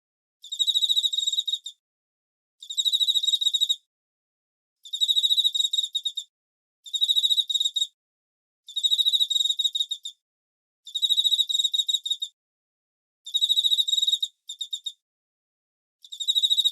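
Cricket chirping in trills of rapid pulses at one high pitch, each trill about a second long with a second of silence between them.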